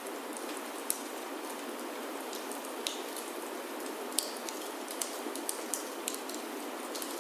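Steady rain falling on a wooden chalet roof, with irregular sharp crackles and pops from a wood fire burning in a fireplace.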